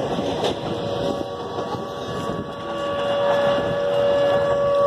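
Passenger train running, heard from inside a coach at an open window: a steady rumble with wind on the microphone, and a steady high whine that grows louder in the second half.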